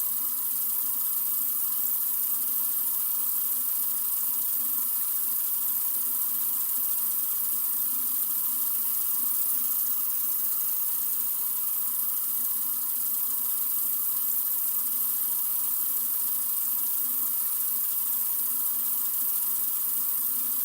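Sink faucet running in a steady, unbroken stream, an even hiss of water.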